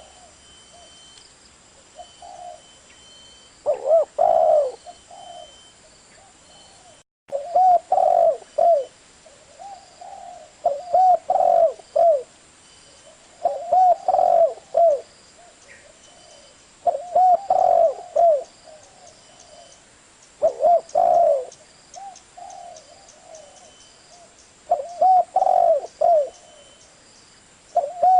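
Spotted dove cooing: phrases of several low, rolling coo notes repeated about every three seconds.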